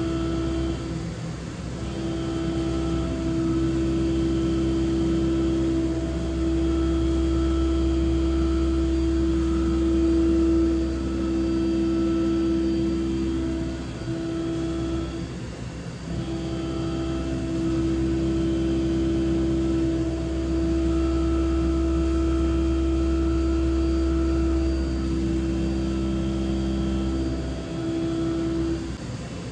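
DMG Mori DVF 5000 five-axis machining centre milling a part, the cut giving a steady singing tone over the machine's low drone. The tone breaks off briefly about a second in, around the middle and near the end, as the tool leaves the cut and moves to the next pass.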